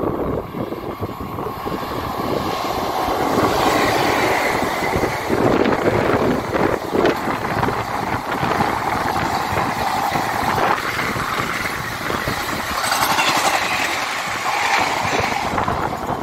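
A passenger train hauled by a WAP-4 electric locomotive passes close by at speed. The rumble and rattle of its wheels on the rails builds over the first few seconds, stays loud while the coaches go by, and starts to fade near the end.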